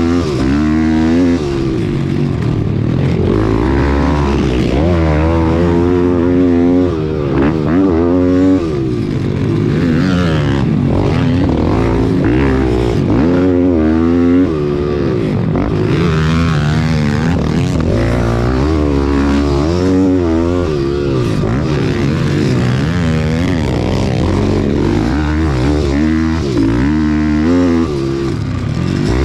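Pit bike engine revving hard, its pitch climbing and dropping over and over as the throttle is opened and closed and gears are shifted.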